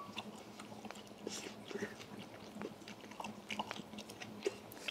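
A person chewing and biting into fried chicken: faint, scattered small clicks and crunches of mouth noise, over a faint steady hum.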